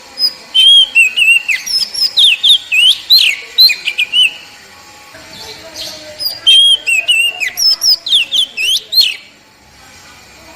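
Oriental magpie-robin (kacer, poci type) singing two loud phrases of rapid, varied whistled notes and slurs, each about three and a half seconds long, with a pause of about a second and a half between them. This is the bird's basic song, used as masteran to prompt other birds to sing.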